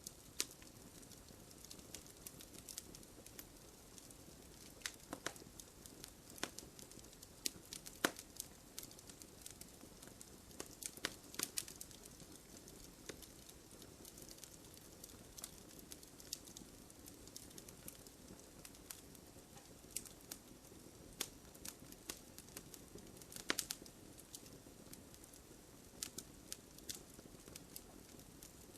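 Wood campfire burning, a low steady hiss of flames with irregular crackles and sharp pops of burning wood.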